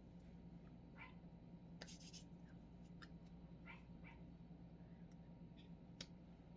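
An animal makes about half a dozen faint, short, rising calls over a steady low room hum, with a few soft clicks.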